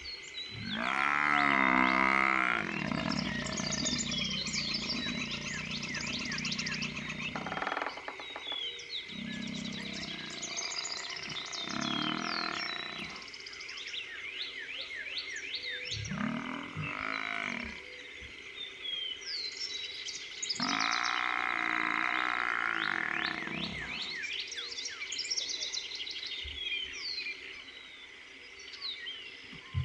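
A dying Cape buffalo bull bellowing several times in long, bending calls, the loudest about a second in and another long one around twenty seconds in, as lions hold it down. A night chorus of frogs chirps throughout.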